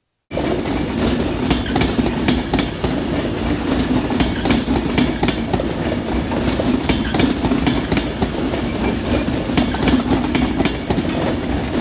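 Avanti West Coast Pendolino, a Class 390 electric train, passing at close range: a steady rumble of wheels on rail with a rapid, uneven clickety-clack of wheels over rail joints. It starts abruptly just after the start.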